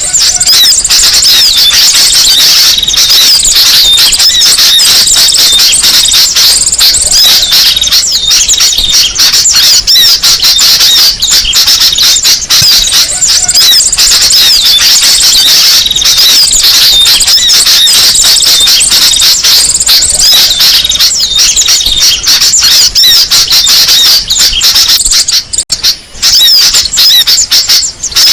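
Loud, dense chorus of rapid high-pitched chirps and twitters from small birds: a bird-lure (pikat) recording meant to draw small songbirds in. The chirping is unbroken except for a short dip near the end.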